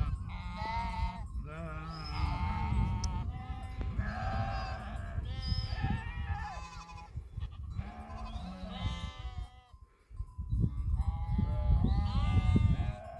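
Flock of livestock bleating, many overlapping wavering calls one after another, with a short lull about ten seconds in.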